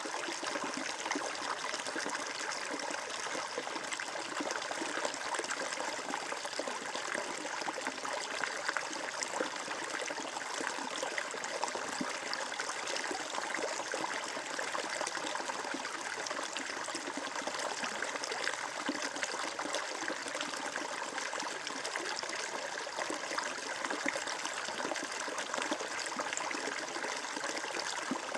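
Flowing water running steadily and unbroken, an even rush with fine flickering detail.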